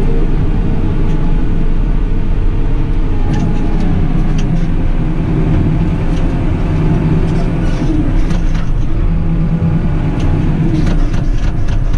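JCB 310S's diesel engine running steadily, its note wavering a little partway through.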